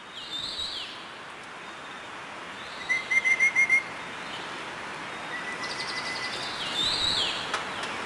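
Wild birds calling. A short whistled call with quick down-slurred notes comes near the start and again about 7 s in, and a run of six quick sharp notes, the loudest sound, comes about 3 s in, over a steady outdoor hiss.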